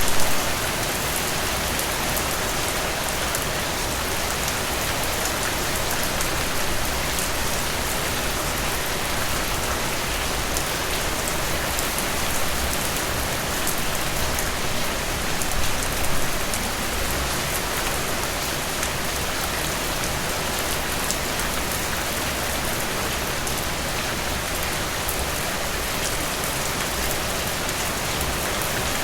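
Steady rain falling, with a dense patter of individual drops. It swells briefly near the start and again about halfway through.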